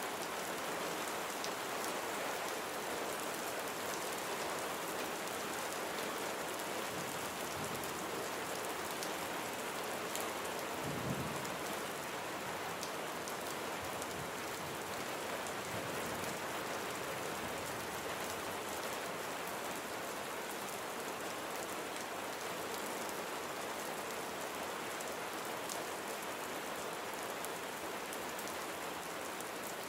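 Steady rain falling on a surface, an even hiss with scattered individual drop ticks. There is one brief low thump about a third of the way through.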